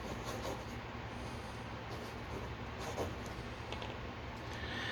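Soft scratching of a drawing tool on paper as strokes are drawn, a few short strokes standing out.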